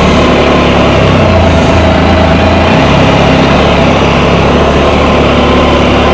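Can-Am Spyder three-wheeled motorcycle's engine running as the bike rides off, its note shifting about two and a half seconds in.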